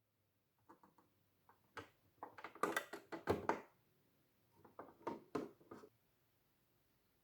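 Handling of a small plastic Hello Kitty toy refrigerator: quick taps and clacks of plastic parts in two bursts, the first a little over a second in, the second around five seconds in.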